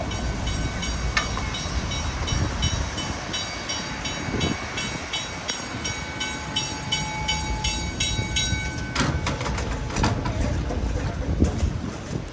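A train running past: a fast, even clatter of about four clicks a second with a steady whine over it. The clatter stops about nine seconds in, and a few sharper knocks follow.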